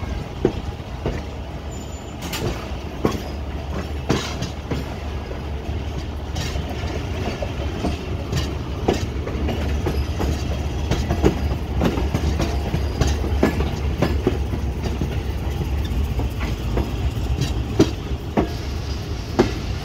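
Pakistan Express passenger coach rolling out of the station, heard from an open coach door: a steady low rumble of the running gear with irregular clacks of the wheels over rail joints and points.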